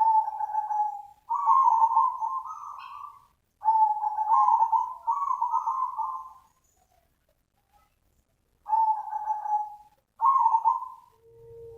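Zebra dove (perkutut) cooing: a run of rapid, trilling coo phrases, with a pause of about two seconds midway before two more phrases.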